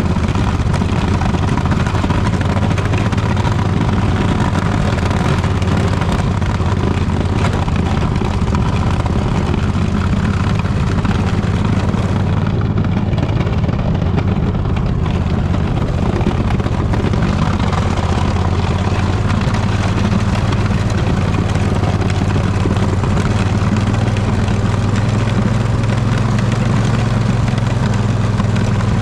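Poulan riding mower's engine running steadily under load as it pushes snow with a front plow blade, its note shifting slightly near the end.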